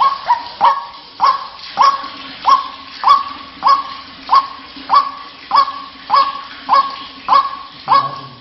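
White-breasted waterhen calling: a harsh note repeated about every 0.6 s, each dropping sharply in pitch and then held briefly. It is the ruak-ruak call used as a lure to draw in other waterhens.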